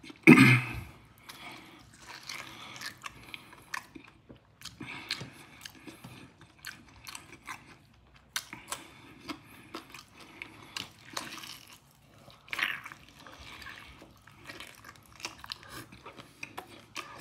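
Close-miked wet chewing and lip-smacking of a person eating seafood and rice by hand, with many small sharp clicks from the mouth.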